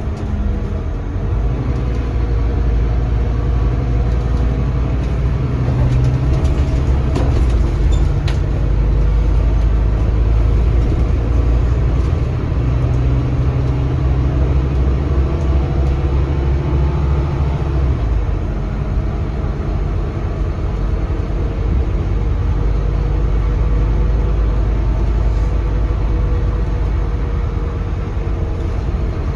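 Scania DC9 five-cylinder diesel engine of a Scania K320CB city bus, heard from on board while the bus is driving. The engine note climbs and is held under power, then drops away about 18 seconds in as the bus eases off, and stays lower until near the end.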